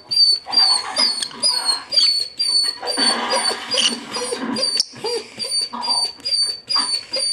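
A dog whining and whimpering over a pet lovebird's short, high chirps that repeat about three times a second.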